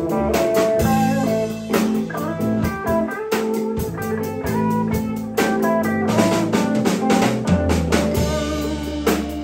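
Live band playing a blues-style jam: electric guitar notes over bass and a drum kit.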